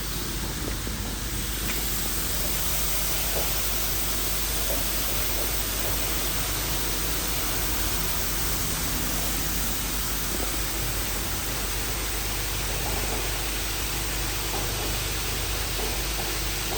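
Christ Vega rollover car wash machine at work, a steady, even hiss of its spraying and machinery that grows a little louder about a second and a half in.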